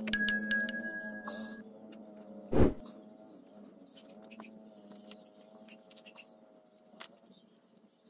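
Subscribe-button animation sound effect: a click and a bright chime ringing for about a second and a half, then a short low thud about two and a half seconds in, over faint background music that fades out near the end.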